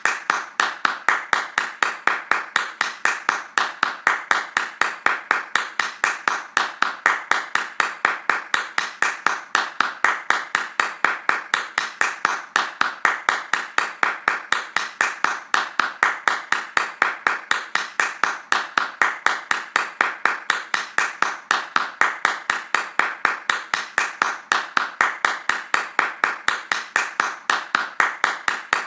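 Hands clapping fast in a steady, even rhythm of sharp claps.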